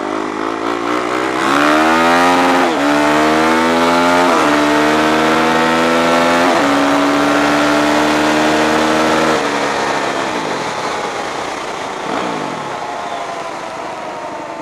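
Motorcycle engine accelerating hard through the gears: the pitch climbs and drops sharply at each of three upshifts, holds steady for a few seconds, then the throttle closes about nine and a half seconds in and the engine winds down.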